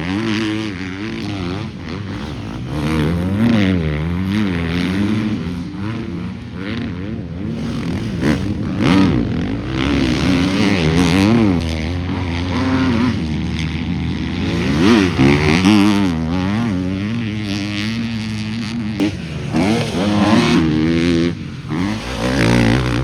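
Several motocross bikes racing around a track, engines revving hard and falling off as they accelerate, shift and back off, with more than one bike often heard at once.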